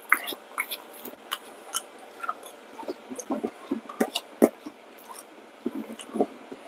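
A person chewing crunchy pork-rind-breaded fried food, with irregular crisp crunches and clicks, a few louder ones about four seconds in.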